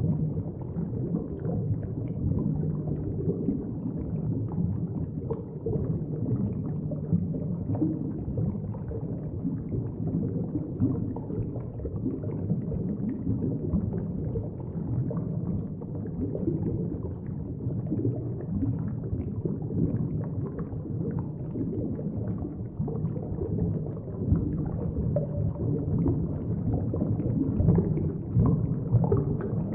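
Underwater ambience: a steady, muffled low rumble of moving water, with faint small crackles running through it.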